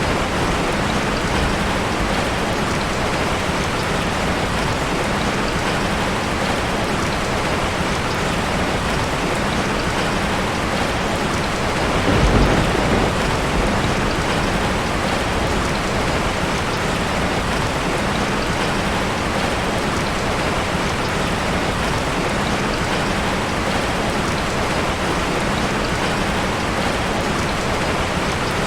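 Heavy rain drumming steadily on a tin roof. A low rumble of thunder swells briefly about twelve seconds in.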